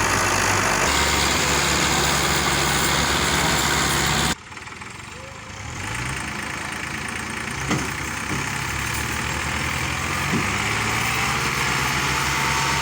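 Massey Ferguson Turbo tractor's diesel engine running hard under load as it pulls a heavily loaded trolley stuck in mud. About four seconds in the level drops suddenly, then the engine builds back up with its pitch rising, and a faint rising whine comes in near the end.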